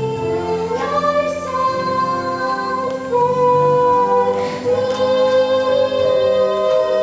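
Singing over musical accompaniment: a slow melody of long held notes, changing pitch about once a second.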